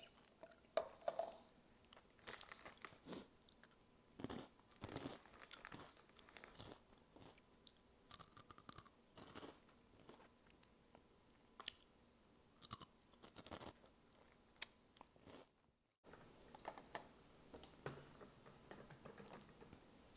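Crunchy snack being bitten and chewed, in irregular bursts of crisp crunches: Hot Cheetos eaten with the mouth close to the microphone.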